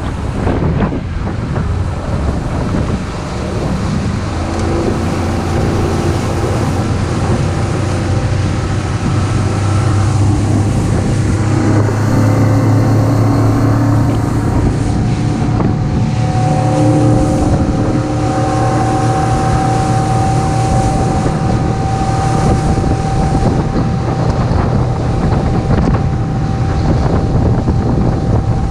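Fishing boat's motor speeding up over several seconds, its pitch climbing, then running steadily at cruising speed, with wind buffeting the microphone.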